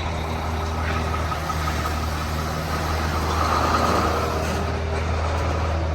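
Semi truck's diesel engine running steadily at low revs, swelling briefly about three and a half seconds in.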